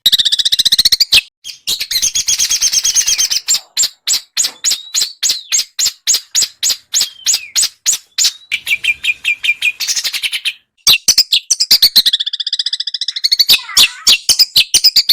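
Small songbird singing a dense, rapid song of harsh, sharp notes repeated several times a second, with high trills and brief pauses: a rough 'isian kasar' tutor song of the kind used to teach and provoke white-rumped shamas.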